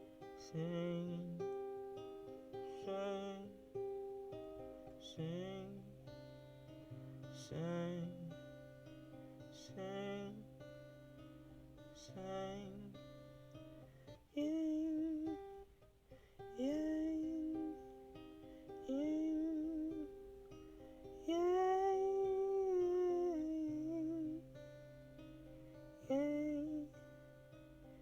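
Acoustic guitar picked and strummed, with a voice singing long wordless notes over it in the second half.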